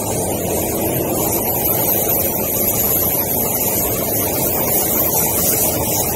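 MTR East Rail Line electric train moving along the platform: a steady rumble of wheels on rail with a high hiss, a little louder in the middle.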